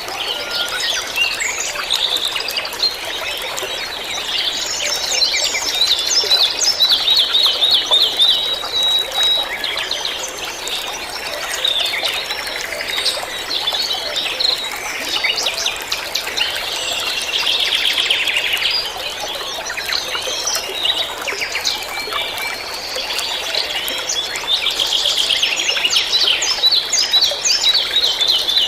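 Several songbirds chirping and trilling over a steady hiss of running water.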